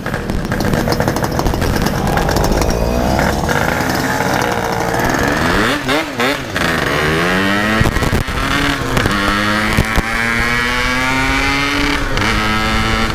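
Yamaha RX-King two-stroke single-cylinder motorcycle engine accelerating through the gears. Its pitch climbs, drops at gear changes about six and eight seconds in, then rises steadily in a higher gear.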